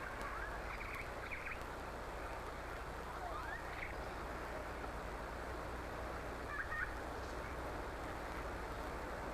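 Steady background hiss with a low hum, and a few brief gliding chirps: about a second in, near four seconds and near seven seconds.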